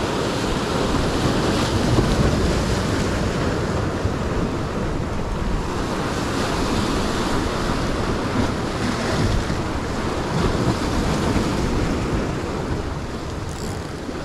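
Sea waves washing on a rocky shore, with wind buffeting the microphone.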